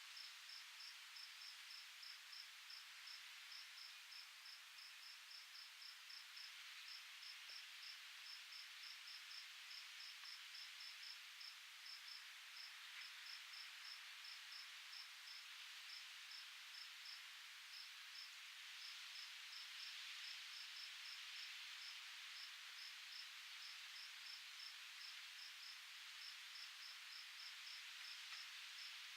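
An insect chirping in a steady high-pitched rhythm, about four chirps a second, over a faint soft hiss of breeze.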